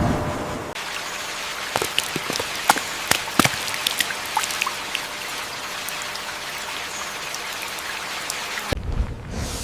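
Steady rain falling on rainforest foliage, with sharp drop impacts pattering close by, thickest in the first few seconds. A low rumble fades out in the first second, and the rain cuts off abruptly near the end.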